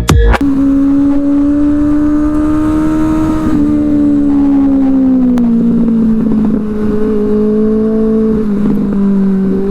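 Benelli 600i motorcycle's inline-four engine through an aftermarket IXIL exhaust, heard from the bike while riding. A strong, steady engine note rises slightly, then drops in a few steps in the second half as the revs come down.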